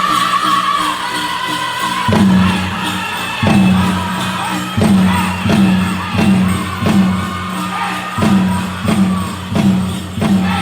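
Powwow drum group singing a chicken dance song: high voices over a big drum. Loud drum beats come in about two seconds in, the first few spaced out, then steady at roughly three beats every two seconds.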